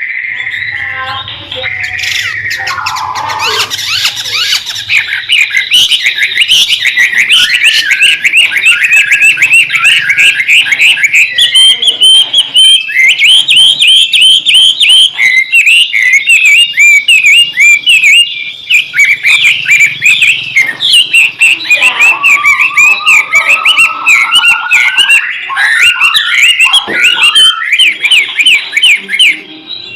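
White-rumped shama (murai batu) singing a loud, busy song of rapid repeated chattering notes, with a longer rising sweep about three quarters of the way in.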